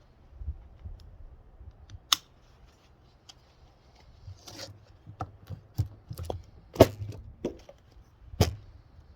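Irregular knocks and clicks of things being handled, with three louder sharp knocks about two, seven and eight and a half seconds in, over a low hum.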